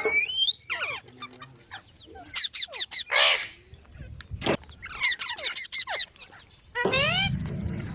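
Green parrot calling in bursts of quick, shrill squawks, many sliding in pitch, with a short hissing sound about three seconds in and a sharp knock about four and a half seconds in.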